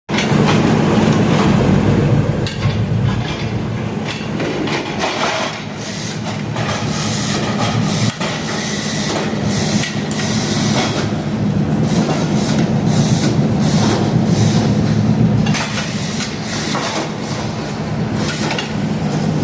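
Sawmill running: a steady engine drone, with higher noise above it that swells and fades every second or so as the saw works.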